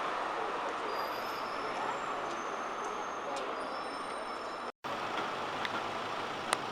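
Articulated city bus running, with steady engine and road noise, a few faint high-pitched whines, and light clicks. The sound cuts out completely for a split second about three-quarters of the way through.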